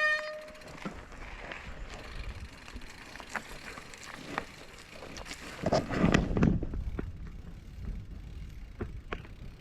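Mountain bike riding along a trail: a low rolling rumble of tyres and frame with scattered clicks and rattles, louder and bumpier for about a second around six seconds in.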